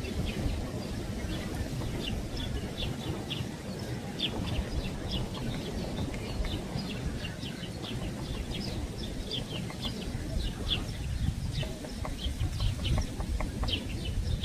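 Birds calling: many short, high chips at irregular intervals, over a steady low rumble.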